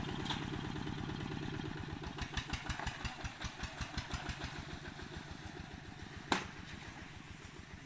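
A small engine running with a low, even beat that slows and grows more uneven about two seconds in, then fades a little, with one sharp click about six seconds in.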